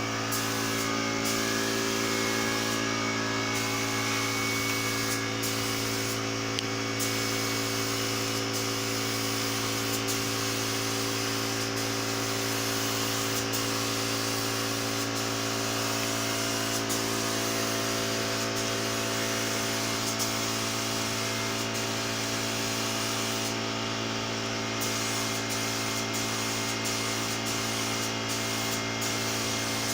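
A 24-litre air compressor running with a steady hum, under the hiss of a spray gun spraying varnish. The hiss thins briefly a few times.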